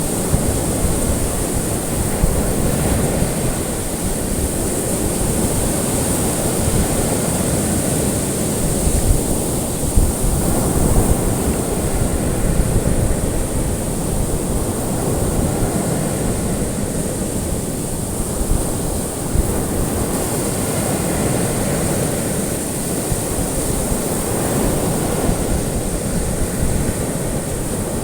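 Ocean waves washing in and out in a steady, continuous wash of surf, with a constant high hiss running above it.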